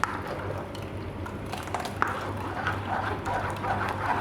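A spoon scraping and pressing wet cucumber pulp against a mesh sieve, with a few light clicks of metal on metal and repeated short scratchy strokes, over a steady low hum.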